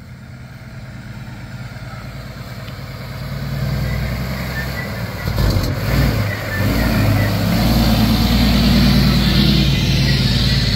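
Semi truck's diesel engine running, growing louder over the first half and then staying loud and steady.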